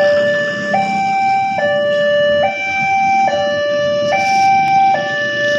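Railway level crossing warning alarm sounding: an electronic two-tone signal alternating steadily between a higher and a lower tone, each held a little under a second, warning that a train is approaching.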